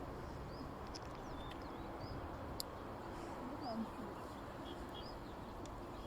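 A small bird chirps short, high notes about once a second over a steady low rush of background noise. A brief, lower gliding call comes about halfway through.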